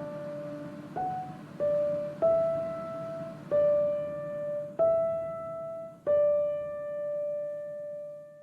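Background music: a slow piano melody of single notes struck about a second apart, the last note left ringing and fading out.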